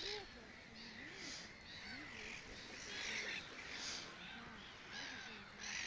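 Faint birds chirping and calling, a short call every half second or so.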